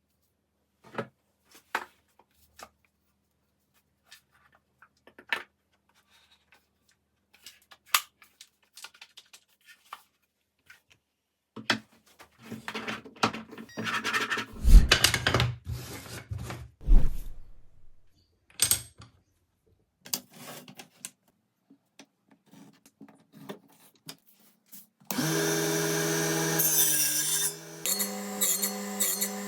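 Wooden puzzle pieces being handled: scattered sharp clicks and knocks, then a busier stretch of rubbing and scraping with a couple of heavy thuds in the middle. Music comes in suddenly near the end.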